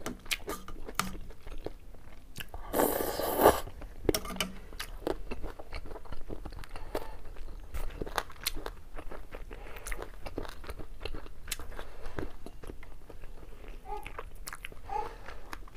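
Close-miked chewing of a mouthful of thukpa noodles, with many small wet mouth clicks and smacks. About three seconds in comes one loud breathy noise lasting about a second.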